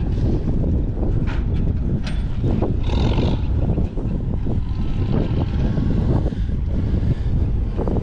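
Tractor engine running, with wind buffeting the microphone and a few short knocks.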